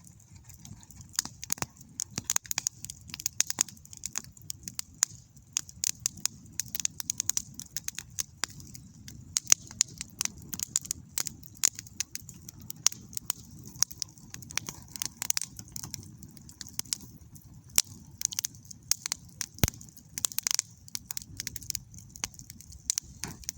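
Campfire crackling: burning wood giving off a steady stream of irregular sharp snaps and pops.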